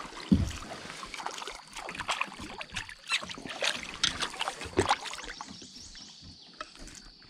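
A just-caught bass being handled aboard a small kayak: irregular clicks, knocks and rattles against the hull and gear, with one heavier thump about a third of a second in, dying down toward the end.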